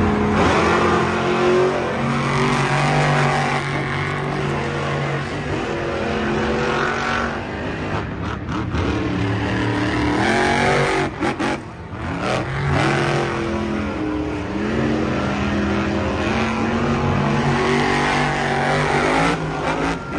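A car engine revving hard, its pitch climbing in steps as if shifting up through gears and then dropping back, again and again.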